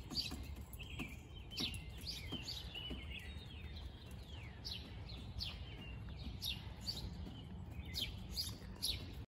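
Songbirds chirping outdoors: many short, quick chirps that slide downward in pitch, over a low steady rumble. The sound cuts off suddenly near the end.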